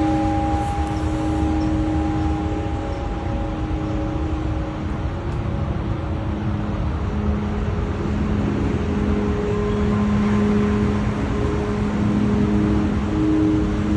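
Crystal singing bowls ringing in long sustained tones: one chord fades over the first half while a lower pair of tones swells in about six seconds in. Under them runs a steady low rumble.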